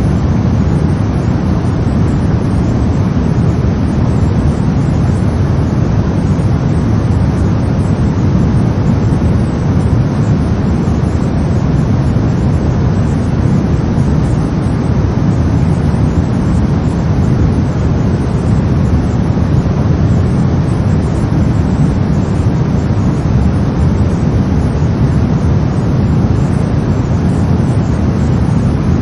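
Brown noise: a steady, deep rumbling hiss, strongest in the low end and falling away toward the highs, with no change in level.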